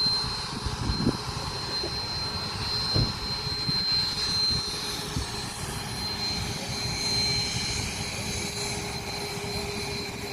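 Jet airliner engines running steadily at the airport, a high steady whine over a constant rumble, with a few low thumps.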